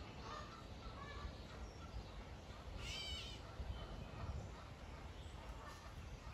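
Faint outdoor background of low wind rumble on the microphone and scattered short bird chirps, with one stronger, short bird call about three seconds in.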